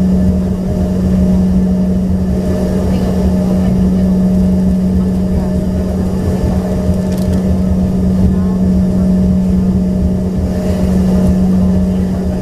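Inside the cabin of an Embraer ERJ-145XR, its rear-mounted Rolls-Royce AE 3007 turbofan engines run steadily: a constant hum over a low rumble, with no rise or fall in pitch.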